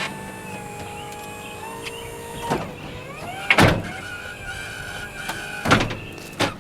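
Powered door mechanism of a wheelchair-accessible Honda Element conversion closing the doors: electric motors whining and shifting pitch, with four clunks as the doors shut and latch, the loudest about halfway through and again near the end.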